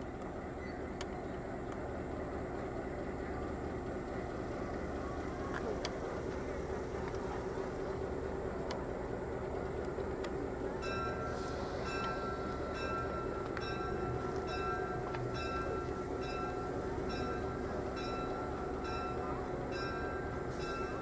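Steady train rumble. From about halfway in, a high-pitched ringing repeats about one and a half times a second.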